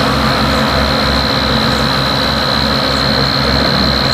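Diesel tractor engine running loudly with a regular low throbbing pulse and a steady high tone above it.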